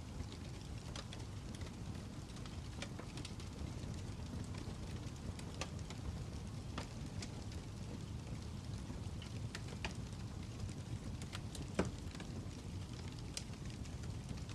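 Fire crackling: a steady low rumble with scattered sharp pops and snaps, the loudest pop about twelve seconds in.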